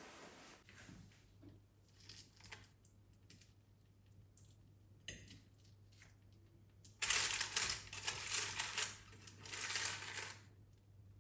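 Household handling sounds: light scattered clicks and taps, then from about seven seconds in a few seconds of loud, crackly, uneven noise with a short break in the middle.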